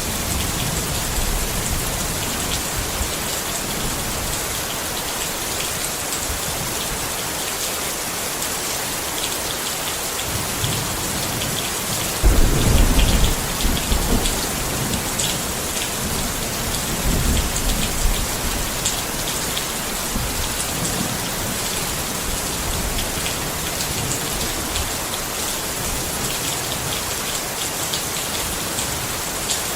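Steady rain pattering on a tent. A short low rumble comes about twelve seconds in, and a fainter one a few seconds later.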